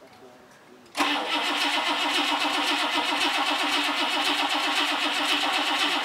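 A classic Buick's V8 engine comes in suddenly about a second in and then runs steadily at a constant speed.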